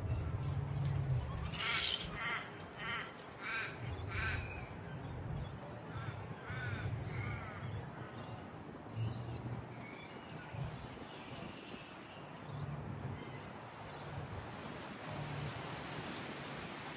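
Harsh, squawking animal calls. A run of about five comes roughly half a second apart a couple of seconds in, then scattered calls follow, with two short high chirps later on.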